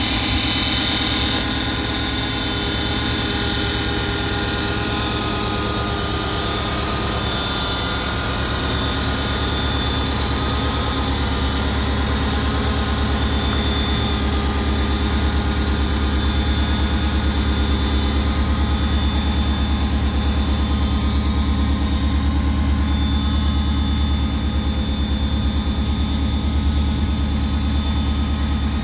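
Ford 5.0-litre V8 idling steadily, heard close to the open engine bay. Its low rumble grows a little heavier about a third of the way in.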